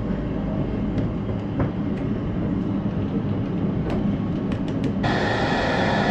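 Steady rumble of a moving train heard from inside the toilet cubicle, with a few light clicks. About five seconds in, the washbasin tap suddenly starts running water with a steady hiss.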